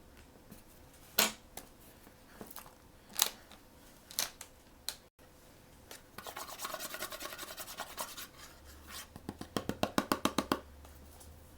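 Blind-bag packaging being handled and opened by hand: a few separate sharp clicks and crinkles, then a scratchy stretch of rustling. Near the end comes a fast, even run of sharp snipping strokes, about eight a second.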